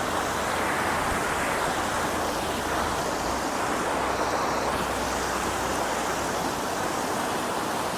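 Fast mountain river rushing steadily, an even wash of water noise.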